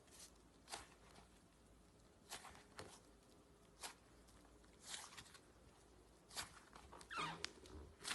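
Slime being handled close up, giving soft, scattered clicks and pops, with a brief run of crackling near the end.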